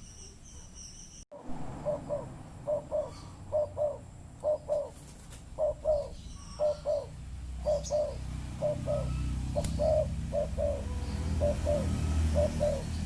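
Spotted dove (tekukur) cooing repeatedly in short phrases of two or three low notes, starting about a second in.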